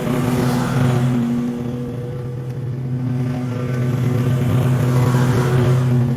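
Small gasoline engine of lawn equipment running steadily at constant speed, its noise swelling louder about a second in and again near the end.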